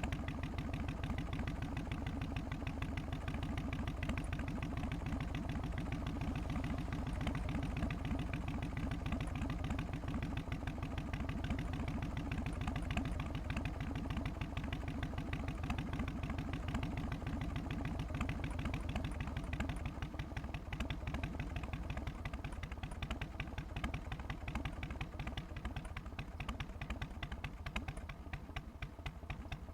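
Harley-Davidson FXST Softail's Twin Cam 88 V-twin idling in its loping three-beat rhythm, steady, easing a little in loudness over the last third.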